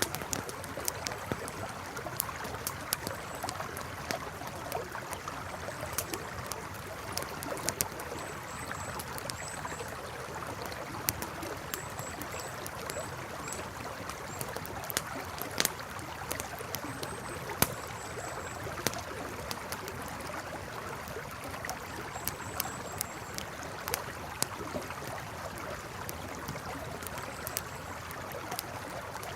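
Campfire crackling with irregular sharp pops over a steady rushing river. Faint high chirps come in short groups now and then.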